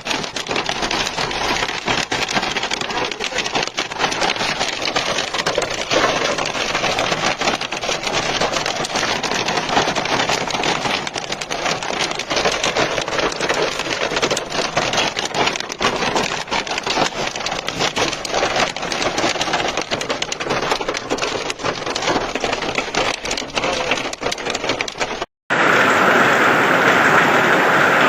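Hailstorm: hail pelting down in a dense, continuous clatter of many small impacts. About 25 seconds in, the sound cuts out for a moment and gives way to a steadier, louder downpour hiss.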